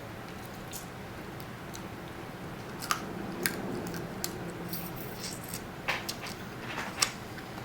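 A person eating close to the microphone: soft chewing and mouth sounds, with scattered small clicks and crackles.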